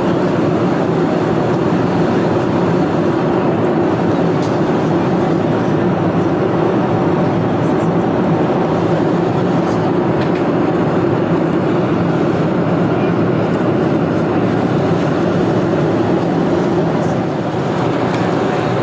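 Steady cabin noise inside a Boeing 747-400 in flight: an even rush of airflow and four-engine jet noise, with a few faint clicks.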